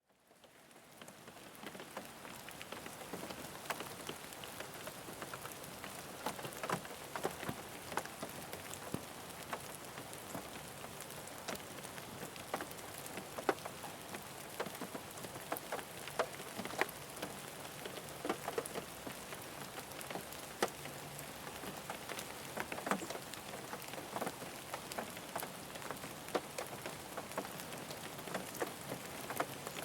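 Rain falling on a car roof and windows, heard from inside the car: a steady hiss with many separate drops tapping, fading in over the first couple of seconds.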